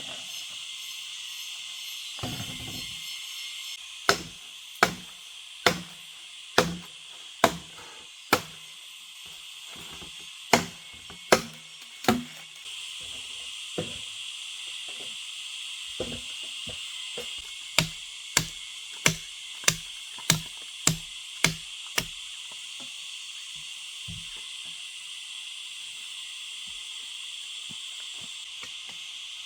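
Repeated sharp knocks struck in steady runs: six about a second apart, then three, then eight a little quicker, over a steady high hiss.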